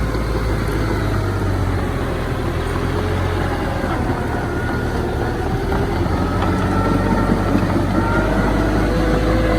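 Diesel earthmoving machinery running steadily under load, a low engine drone with a wavering whine over it.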